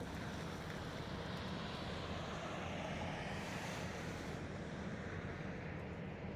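Steady rumble of road vehicles and traffic, with one vehicle passing by about three and a half seconds in.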